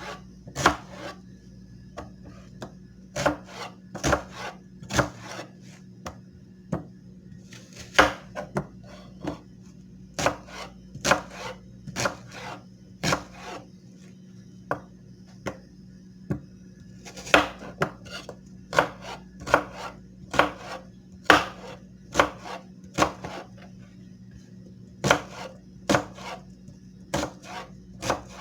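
A knife worked in a run of short, sharp strokes, irregular at about one to two a second, over a steady low hum.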